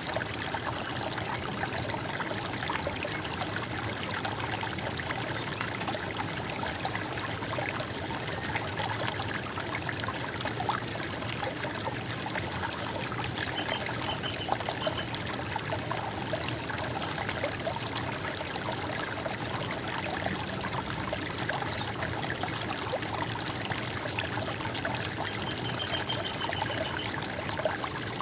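Running water trickling and splashing steadily. Faint short bird chirps come in twice, about halfway through and near the end.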